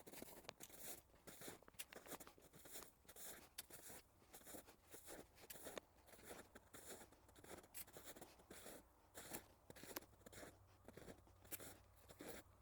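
Faint footsteps crunching on the forest floor at a steady walking pace.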